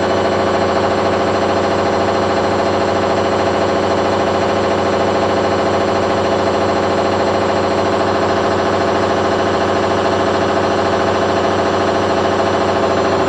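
Candy washing machine spinning at high speed during the spin between rinses, a steady, loud hum and whine. It was set to 800 rpm, and the owner thinks it reached about 900.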